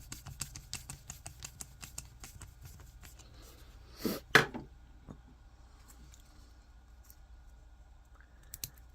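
Small hard plastic parts and hardware being worked by hand: a quick run of light clicks, then two louder knocks about four seconds in.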